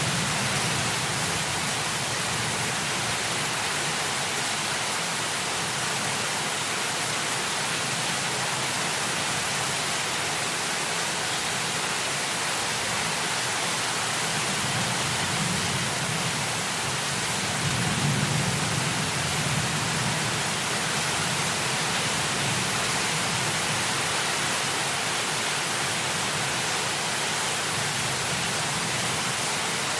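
Heavy rain falling as a steady, even hiss, with a low rumble underneath that swells twice past the middle.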